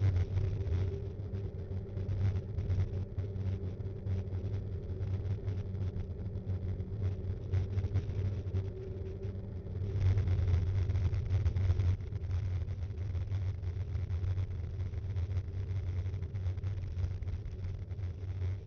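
Ride noise of a mountain bike picked up by a bike-mounted action cam: a steady low rumble with a faint hum, constant fine rattling, growing louder for about two seconds partway through.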